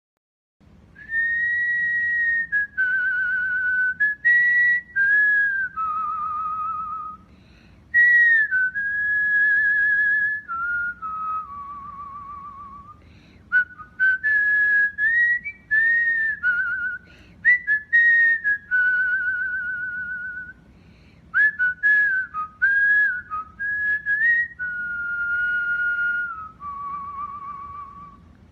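Cockatiel whistling its song: a string of clear, held whistled notes, some steady and some with a fast waver, sung in several phrases broken by short pauses.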